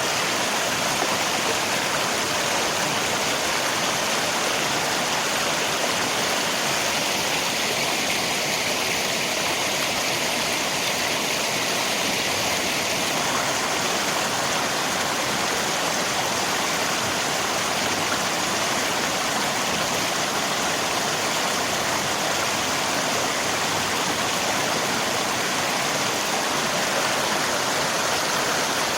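River water and rain making a steady, even rushing hiss that holds unchanged throughout.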